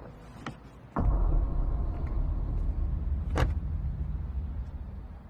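Two light clicks, then about a second in a vehicle engine starts with a sudden low rumble that slowly fades, with a sharp click partway through.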